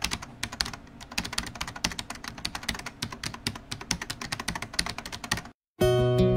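Fast typing on a computer keyboard, a quick irregular run of key clicks that stops about five and a half seconds in. Moments later, acoustic guitar music starts, strummed.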